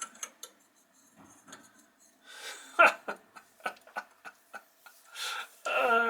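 Scattered light metallic clicks and taps of a steel 5C collet being worked into a collet chuck while its key slot is hunted for, with one sharper clink about three seconds in. Near the end a short falling vocal sound, a frustrated groan.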